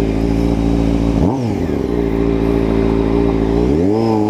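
Sport motorcycle engine running steadily, with a quick throttle blip about a second in, then rising in pitch as the bike accelerates near the end.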